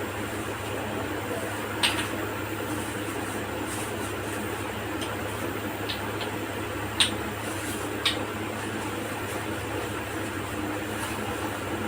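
Steady low electrical hum under a constant hiss, broken by three sharp clicks about two, seven and eight seconds in.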